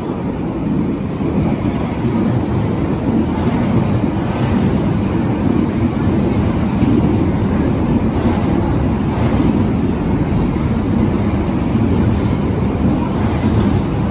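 Berlin U-Bahn large-profile train running on its rails: a steady low rumble of wheels and running gear that builds over the first couple of seconds, with a faint high-pitched whine joining in near the end.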